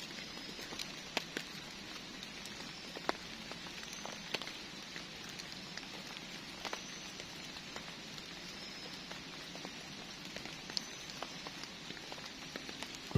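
Steady rain falling, with scattered louder drops striking nearby.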